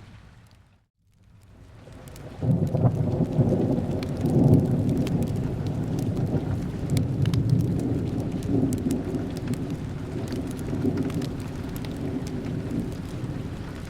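Rain noise that dips almost to silence about a second in. A loud, deep rumble of thunder then breaks in at about two and a half seconds and keeps rolling, with scattered sharp ticks of drops over it.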